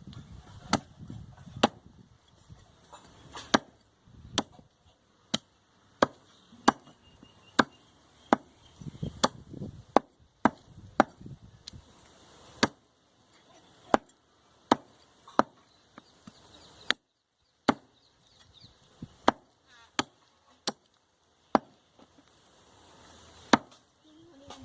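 Cleaver chopping goat meat on a wooden block: a long run of sharp, separate chops at an irregular pace of about one or two a second.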